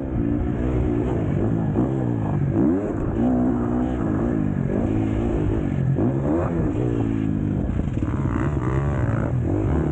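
Four-stroke KTM SX-F motocross bike engine revving hard and rising and falling in pitch again and again, throttle on and off through the turns of a race.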